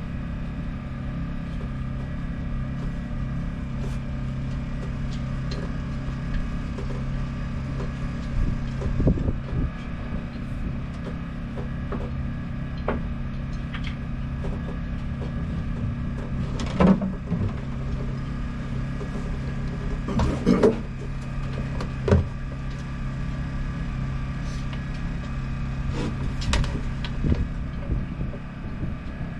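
A motor running with a steady low hum, broken by a few sharp knocks and clanks.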